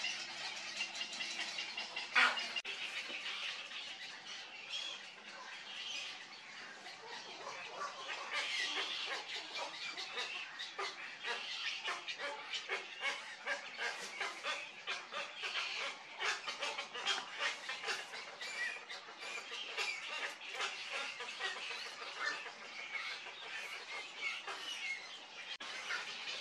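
Birds squawking and chattering without pause, many short harsh calls in quick succession, with a sharp click about two seconds in.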